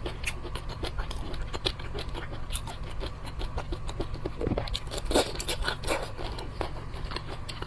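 Seafood being handled and eaten: many small clicks, scrapes and crackles of shell, over a steady low hum.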